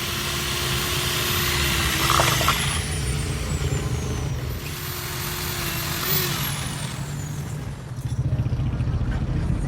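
Workshop machine running with a steady low rumble. Twice, a high whine holds for a few seconds and then falls away in pitch, like a motor winding down.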